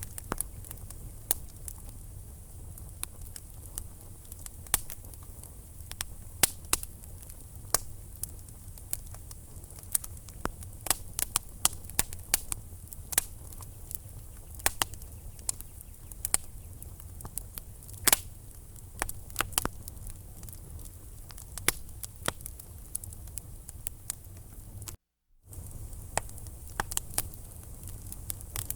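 Wood fire crackling in a fireplace: irregular sharp pops and snaps from the burning logs over a steady low rumble of the flames. The sound drops out for about half a second near the end.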